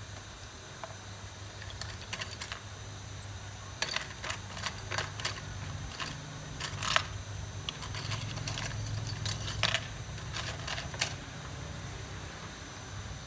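Small metal tools clicking and tapping on a phone-repair workbench, with irregular clicks for several seconds over a steady low hum.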